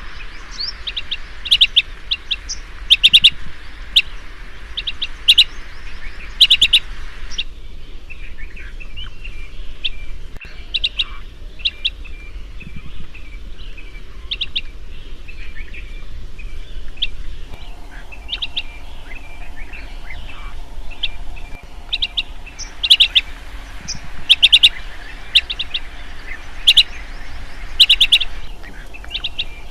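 Chestnut-headed bee-eater (kirik-kirik senja) calling: short, sharp high chirps in quick clusters of two to four, repeated every second or so, fainter through the middle stretch and louder again near the end.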